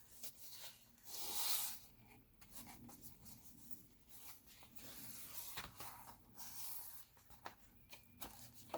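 Pages of a paper art journal being turned and handled: a soft swish about a second in, then light rustling and a few small taps.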